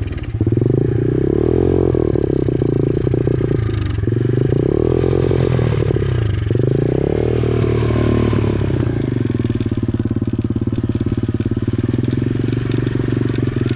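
Small dirt bike engine revved up and down three times, then settling to a steady, lower idle. The rider blames the way it runs on the carburetor.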